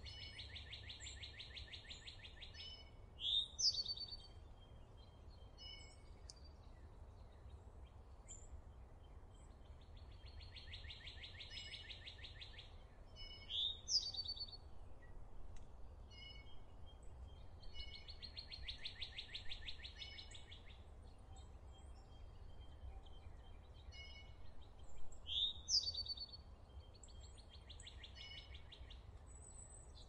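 Birds calling: a buzzy trill about two to three seconds long comes four times, and three bursts of sharp, sweeping chirps are the loudest sounds. Short high notes are scattered in between, over a faint steady low rumble.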